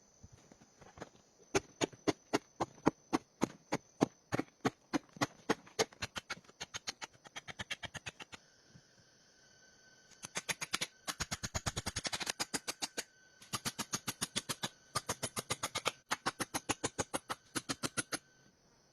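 A long run of sharp, evenly spaced knocks, about four a second, fading after several seconds. From about ten seconds in come faster rasping strokes in short runs with brief pauses.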